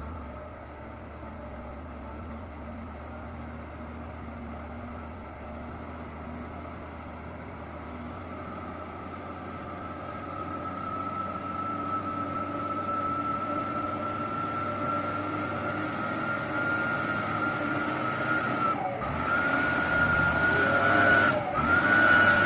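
Diesel truck engine running under load and growing steadily louder as it draws near, with a high steady whine over the engine that creeps slightly up in pitch; the sound breaks off briefly twice near the end.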